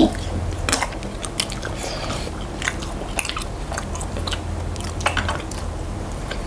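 People chewing and biting food: instant carbonara noodles and a sausage being eaten, with many short wet mouth clicks and smacks.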